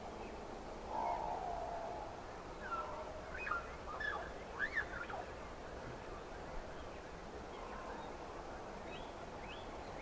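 Outdoor birdsong: a short call about a second in, then a scatter of small birds' chirps and sweeps in the middle, and a run of quick repeated chirps near the end.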